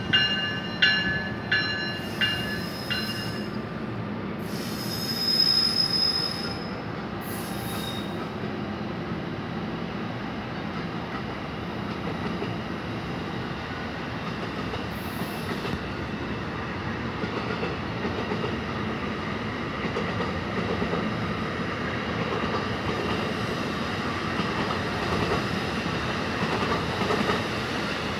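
NJ Transit bi-level commuter train hauled by an ALP-46A electric locomotive rolling into a station stop: a ringing bell repeats a few times a second for the first second or so, a brief high wheel squeal comes about five seconds in, then the coaches rumble steadily past as the train slows.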